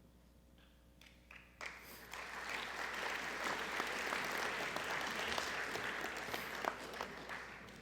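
Audience applauding in a gymnasium. A few scattered claps come about a second in, then the whole crowd joins, and the applause fades near the end.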